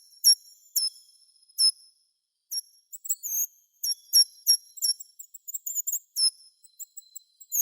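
A songbird singing: high, sharp, clear notes, each ending in a quick downward flick. They come singly and spaced for the first couple of seconds, then in faster runs.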